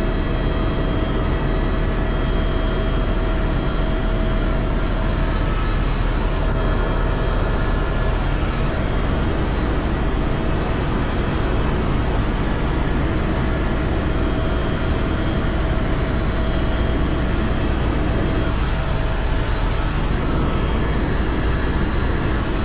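Helicopter running steadily: a constant drone of engine and rotor noise with a faint steady whine above it.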